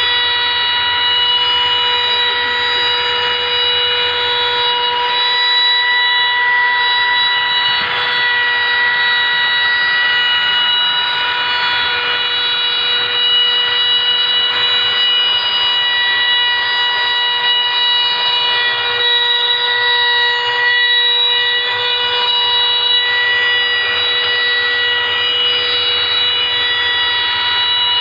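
CNC router spindle whining steadily while it cuts an interior pocket in oak, with the hiss of the bit chewing through the wood under the high whine.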